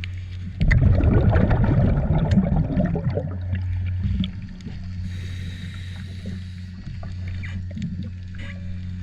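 A steady low hum of running machinery aboard a boat. A louder rough, gurgling rush joins it from about half a second in until about four seconds in, followed by scattered light clicks.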